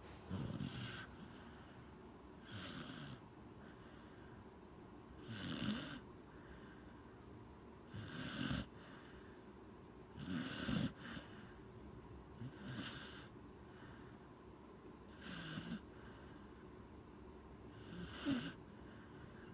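Corgi snoring: eight short snores in a steady rhythm, about one every two and a half seconds.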